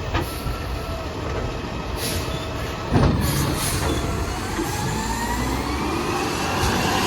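Garbage truck engine running, with a heavy knock about three seconds in, then the engine's pitch rising slowly as it revs up under load.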